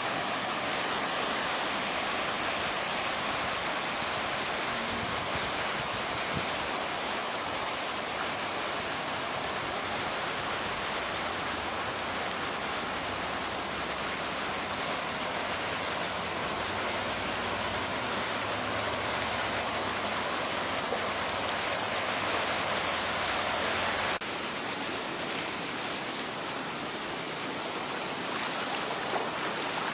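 Floodwater rushing steadily, an even hiss with no breaks. About 24 seconds in the low rumble drops away and the rush turns a little quieter.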